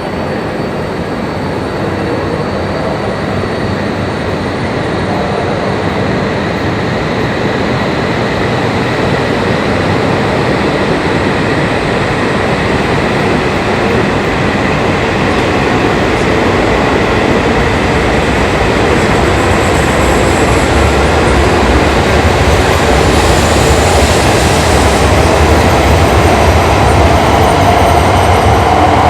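Shinkansen high-speed train running at the platform, a continuous rail and motor noise that grows steadily louder.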